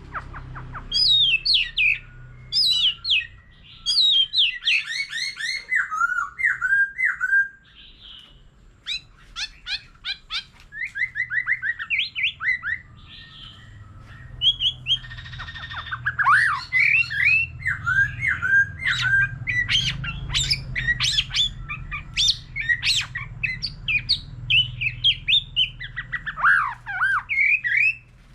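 White-rumped shama singing a long, varied song of rapid whistles and trills, with brief pauses about 8 and 13 seconds in.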